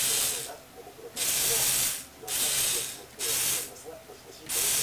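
Small electric gear motors of a Lego Technic robot arm running in short bursts, a hissing whirr that starts and stops about four times.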